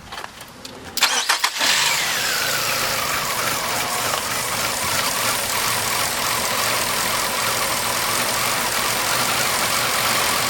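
2002 Nissan Altima engine cranking briefly about a second in, catching, and settling into a steady idle, with a whine that falls in pitch over its first couple of seconds of running. This is a start test after the throttle body, idle sensor and throttle position sensor were cleaned.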